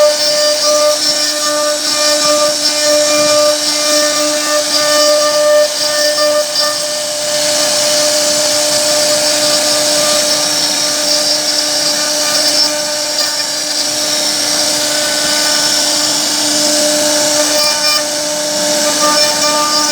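CNC router spindle running steadily with a high whine while the bit cuts wood, the tone shifting slightly about seven seconds in.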